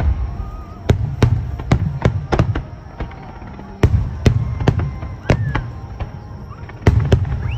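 Aerial fireworks shells bursting in rapid volleys: many sharp bangs over a low rumble, coming in three clusters about three seconds apart.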